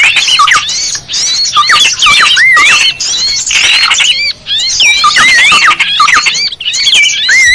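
Dense chorus of many small birds chirping at once, quick whistled notes sweeping up and down and overlapping without a break: a bird-lure (pikat) recording for drawing in small birds.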